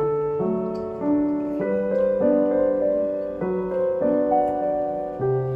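Background music: a slow piano piece of sustained notes and chords, changing every half second or so.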